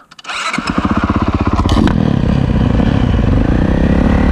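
Single-cylinder four-stroke motocross engine of a 2025 Honda CRF450RWE, coming in about a third of a second in with firing pulses that quicken and grow louder as it revs up and accelerates, then running loud and steady at high revs.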